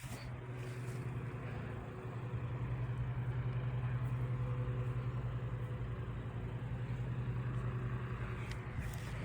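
A motor vehicle's engine idling with a steady low hum.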